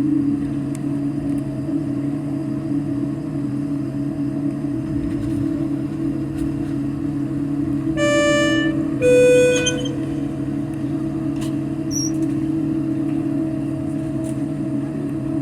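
Airliner cabin with the steady hum of the engines. About eight seconds in, a two-tone cabin chime sounds, a high note followed by a lower one.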